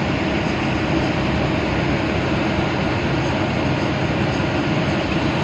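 Steady engine and road noise inside the cabin of a moving air-conditioned bus.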